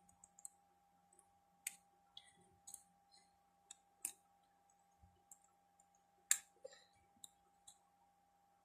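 Faint, irregular clicks and light taps of small parts and tools being handled on a workbench, the sharpest about six seconds in, over a faint steady hum.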